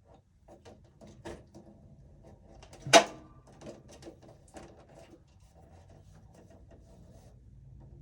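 Small clicks, scrapes and knocks of hand tools and wire being handled, with one sharp, loud click or knock about three seconds in.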